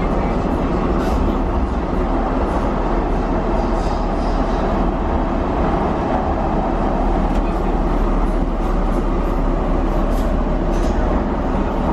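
Docklands Light Railway train running through a tunnel, heard from inside the front carriage: a steady, loud rumble of wheels on the rails, with a few faint clicks.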